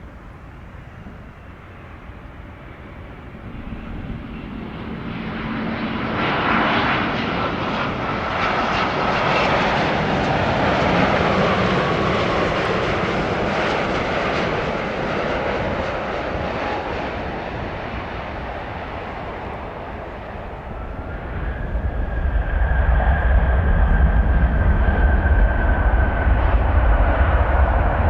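Jet airliner's engines running as it passes, a whining noise that swells within a few seconds. About three quarters through, a heavy low rumble with a steady high whine builds up and stays loud.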